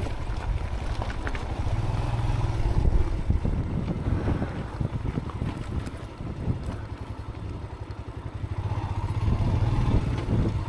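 Motorcycle engine running under way, its low pulsing note swelling about two seconds in and again near the end, with wind buffeting the helmet-mounted microphone.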